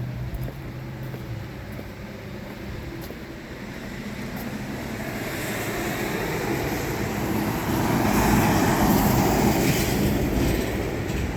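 Rolling thunder: a low rumble that builds over several seconds, is loudest about eight to ten seconds in, then eases slightly.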